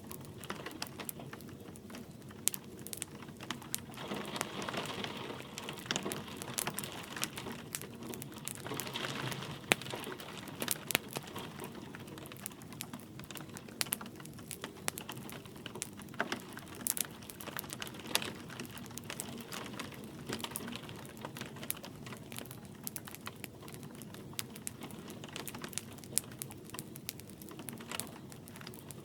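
Wood fire crackling with irregular sharp pops, a few louder ones about ten seconds in, over a steady soft hiss of light rain. The hiss swells briefly twice in the first ten seconds.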